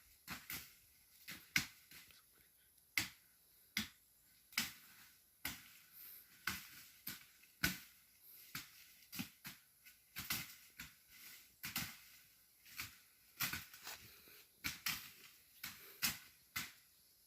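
Dry vegetation crackling and snapping in irregular sharp snaps, about one or two a second.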